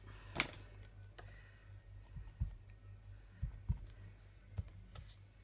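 Stamps being handled on a craft desk: a sharp click about half a second in, then a few soft knocks and taps.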